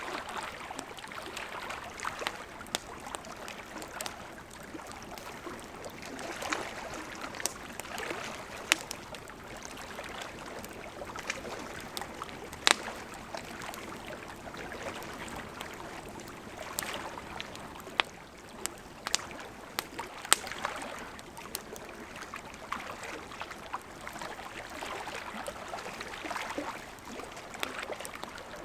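Wood campfire crackling, with irregular sharp pops and snaps, a few of them loud, over the steady rushing of a gently flowing river.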